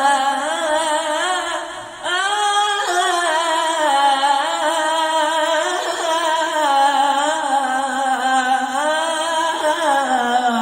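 A solo singer's voice holding long, ornamented vowels with a wavering vibrato, in long phrases that break briefly about two seconds in and again around six seconds.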